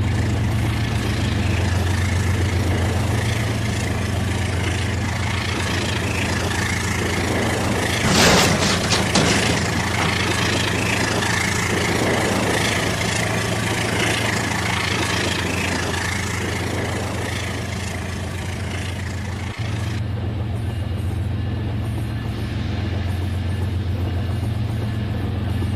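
Toy train running on its track: a steady motor hum with wheel noise, and a brief burst of clicking and rattling about eight seconds in.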